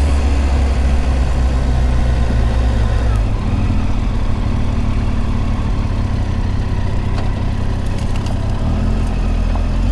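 Triumph Tiger 800 XRx's three-cylinder engine running at low speed, a steady low rumble whose note changes about three seconds in and again near the end.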